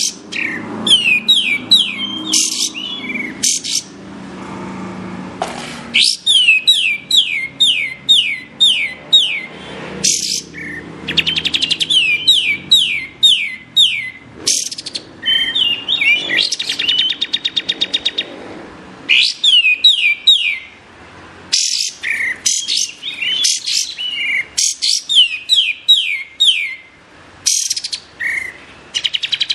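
Kapas tembak songbird singing: bursts of quick, sharp whistled notes, each sweeping steeply downward, several a second, separated by short pauses, with a fast buzzing rattle about halfway through.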